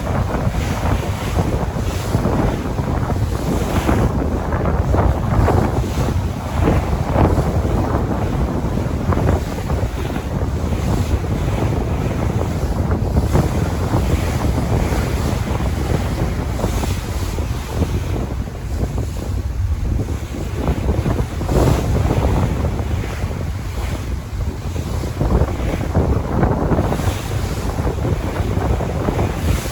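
Sea waves washing in continuous surges, with wind buffeting the microphone and adding a heavy low rumble.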